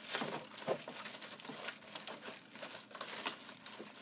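Plastic packaging wrap crinkling and rustling in irregular crackles as plastic-wrapped ride-on toy car parts are handled and pulled out of the box.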